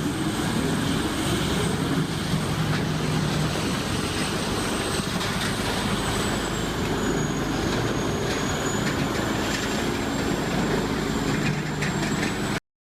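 CBI Magnum Force 8400 wood grinder running at full throttle, shredding logs into chips: a loud, steady, dense machine noise with a thin high whine over it. It cuts off suddenly near the end.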